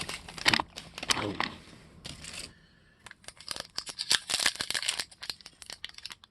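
Trading-card pack wrapper crinkling and crackling as it is handled, with a dense run of quick crackles in the second half.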